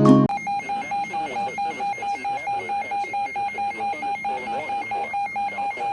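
Weather radio receiver sounding its alert alarm: a single beeping tone repeated about four times a second, with a broadcast voice faint beneath it. It signals a severe thunderstorm warning.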